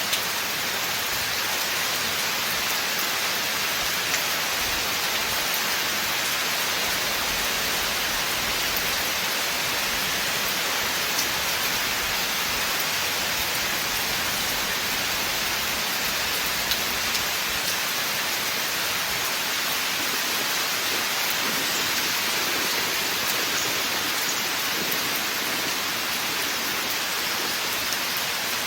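Steady rain falling on a forest, an even hiss with a few scattered drop ticks.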